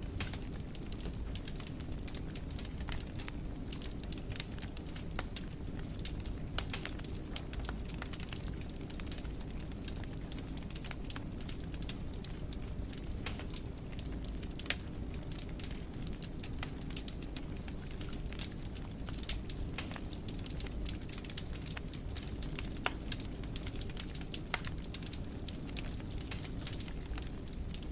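Wood fire crackling, with many sharp pops and snaps scattered over a steady low rumble of the flames.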